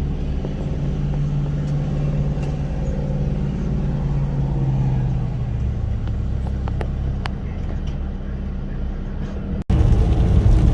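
A car driving along, with a steady low engine and road rumble. Just before the end there is a brief dropout, and the rumble comes back louder.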